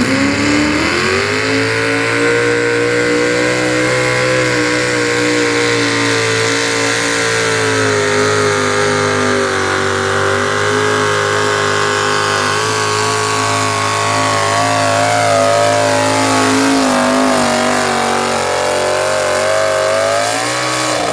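Two-wheel-drive super stock pulling truck's engine at full throttle hauling the sled: revs climb at the start, hold high with slow sags and recoveries under load, and fall away at the very end.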